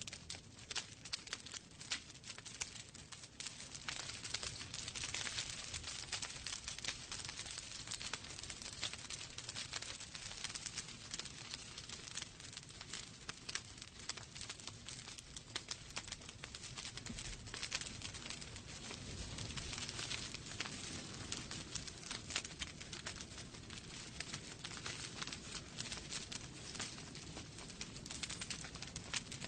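Wood fire burning in a fireplace, with steady dense crackling and popping over a soft hiss.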